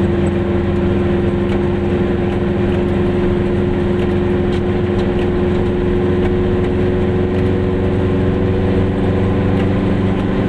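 Goggomobil's small air-cooled two-stroke twin engine running steadily, its pitch nearly constant throughout.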